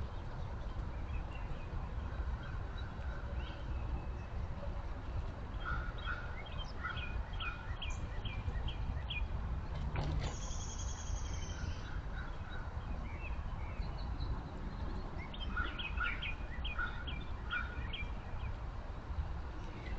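A songbird singing two phrases of about six repeated down-slurred whistled notes each, with a short high call in between, over a steady low background rumble.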